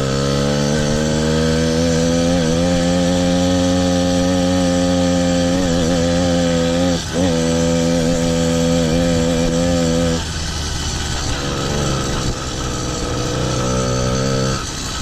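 Small two-stroke engine of a motorized bicycle running hard up a steep hill. Its note rises a little at first and then holds steady, with a short dip about seven seconds in. About ten seconds in it breaks into a rougher, uneven sound for a few seconds, and the steady note picks up again near the end.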